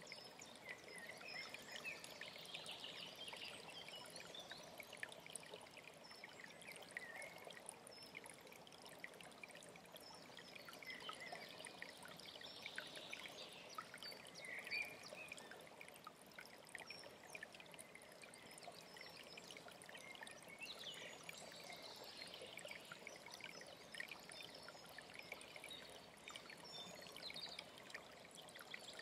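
Faint, steady trickling and splashing of a small alpine stream, with birds chirping now and then. The clearest chirp comes about halfway through.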